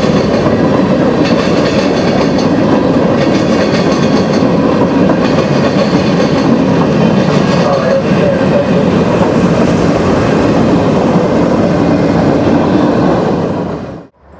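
Train cars rolling past close by: a loud, steady rumble of wheels on rail with clickety-clack. It cuts off suddenly near the end.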